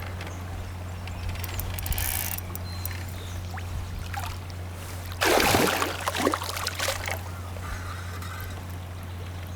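A hooked northern pike splashing at the surface beside a kayak: light trickling and dripping water, then a loud splash about five seconds in, followed by a couple of smaller splashes.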